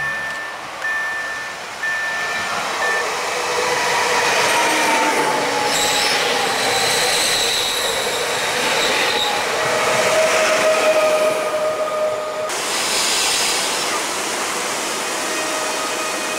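Koleje Śląskie EN76 (Pesa Elf) electric multiple unit running past close by and slowing for the station, its wheels and running gear rumbling, with a falling electric whine as it passes and steady high whines while it brakes that cut off sharply after about twelve seconds. At the start, a repeating ding of a level-crossing warning signal stops after a few seconds.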